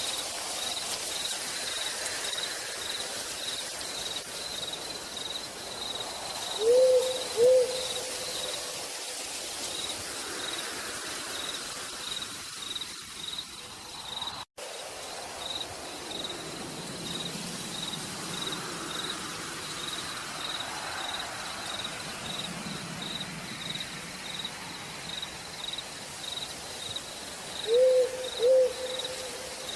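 Steady rain falling in a forest at night, with an insect chirping in an even, rapid pulse throughout. An owl gives a pair of short hoots twice, about seven seconds in and near the end, and the sound cuts out for a moment about halfway through.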